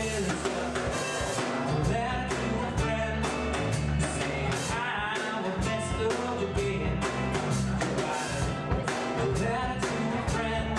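Small live band playing: string instruments over bass and drums, with a steady beat.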